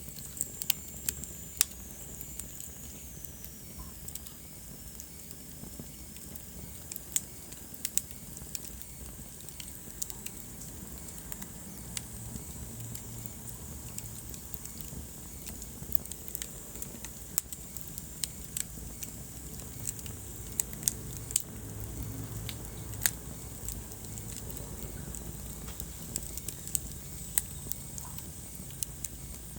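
Wood fire burning in a fireplace: irregular sharp crackles and pops over a low steady rumble of the flames. A faint high whistle slides down in pitch in the first few seconds.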